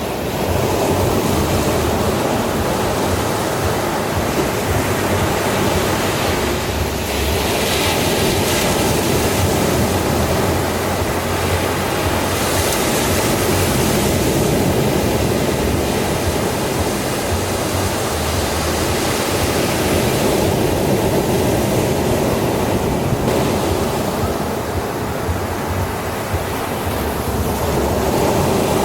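Ocean surf: a continuous rush of waves breaking and washing, swelling and easing every few seconds.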